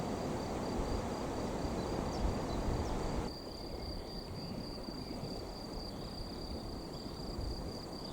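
Crickets trilling, a steady high thin chirr, over a low rushing outdoor background that drops suddenly about three seconds in.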